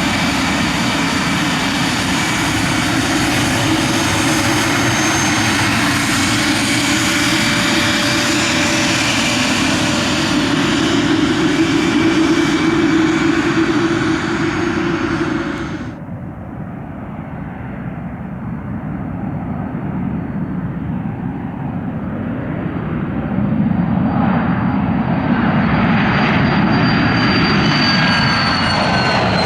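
Private aircraft engines running loud, with high whining tones over the roar. About halfway through the sound cuts abruptly to a quieter engine with a single high whine. That engine grows louder and its whine drops slightly in pitch near the end.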